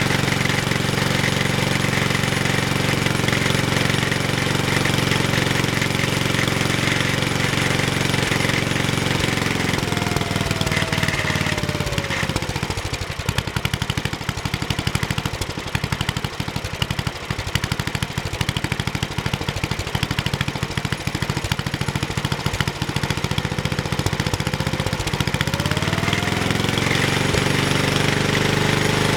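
Briggs & Stratton 8 HP I/C single-cylinder engine running at high speed, then throttled down about ten seconds in to a slow idle where the separate firing beats can be heard, and throttled back up to high speed about 26 seconds in.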